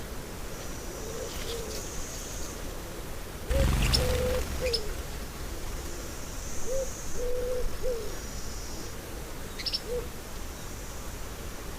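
A bird's low hooting coos in three-note phrases, a short note, a held note and a falling note, given twice in the middle with fainter single notes before and after. High chirps from small birds and a thin, steady high buzz sound over them, and a brief low rumble hits the microphone about three and a half seconds in.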